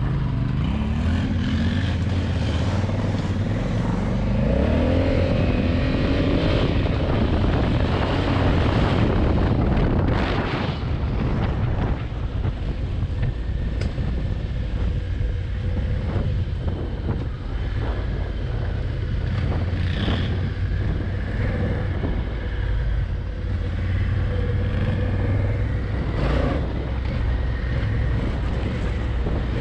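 Honda Africa Twin's parallel-twin engine running under way on a gravel road, with wind buffeting the microphone. The engine note climbs as the bike accelerates about four to seven seconds in, then holds steady.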